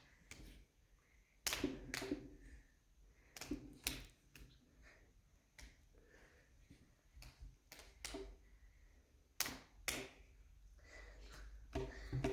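Scattered light clicks and knocks at an uneven pace, about a dozen in all, with faint murmuring between them.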